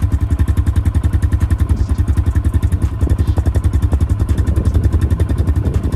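A 140 cc dirt bike with a stock exhaust idling steadily, a rapid, even beat of about a dozen pulses a second.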